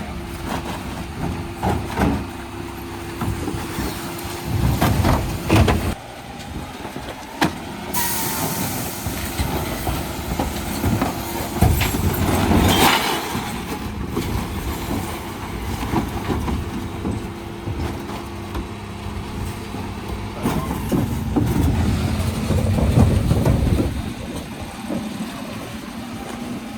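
Dennis Elite 6 refuse truck running with a steady mechanical hum, broken by repeated knocks and clatter at intervals.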